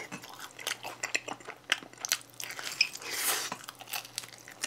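A person biting into a slice of pizza and chewing it close to the microphone: irregular soft crunches and mouth clicks.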